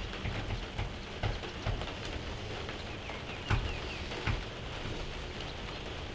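Steady rain falling, with scattered louder drops ticking irregularly on a nearby surface.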